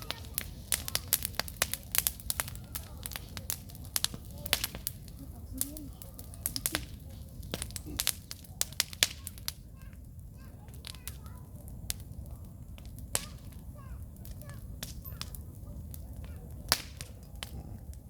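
Wood campfire crackling, with many sharp pops and snaps from the burning logs, coming thick in the first half and more sparsely after; the popping is from damp logs heating up and bursting.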